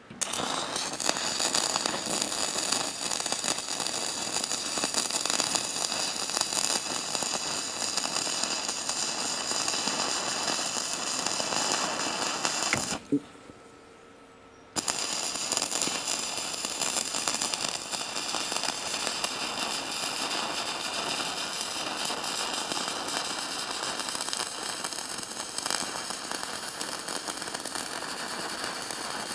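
Stick (arc) welding: the electrode arc crackles and sizzles steadily as a bead is laid, cuts off abruptly for about two seconds partway through, then strikes again and runs on.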